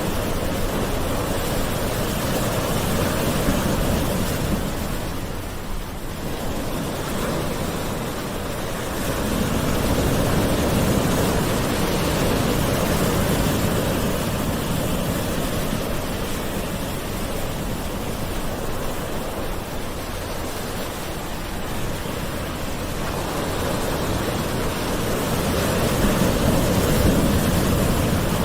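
Gentle ocean waves washing on a shore in a steady rush of surf, swelling and easing slowly every several seconds.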